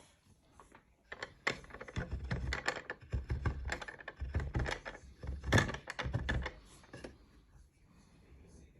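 Handling noise on a workbench: a quick, irregular run of small clicks and knocks with dull thumps under them, from about a second in until near the end, as tools and the laptop board are moved about.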